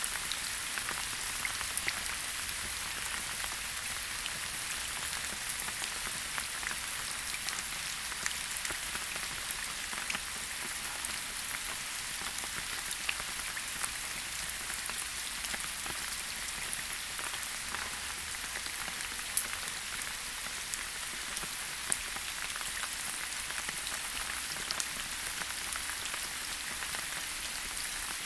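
Steady rain falling in a forest, a constant hiss with the distinct taps of individual drops scattered through it.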